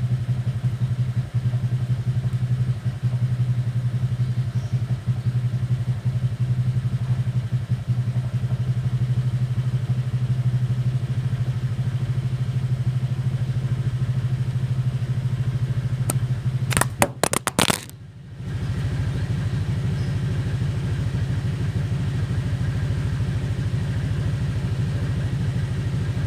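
A small engine running steadily at a low, even idle. About 17 seconds in, a few sharp clicks come and the sound drops out briefly before the engine sound returns.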